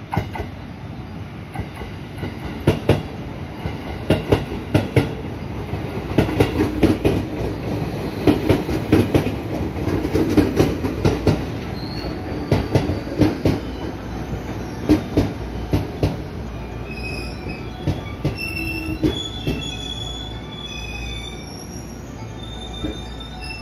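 JR West 221 series electric train pulling into a station: wheels clacking over rail joints and points with a rumble, then high squeals from the wheels and brakes as it slows alongside the platform in the last few seconds.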